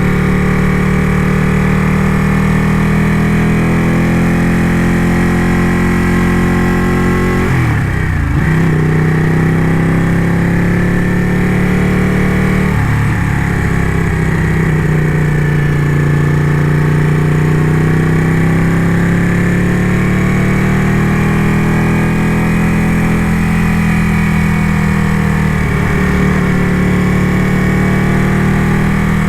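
Ducati motorcycle engine running under way at a steady pitch. The engine note dips and climbs back twice, about eight and thirteen seconds in, as the throttle or gear changes.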